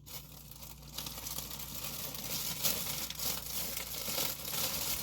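Plastic snack wrappers crinkling as packets are handled, a dense continuous crackle that builds up about half a second in.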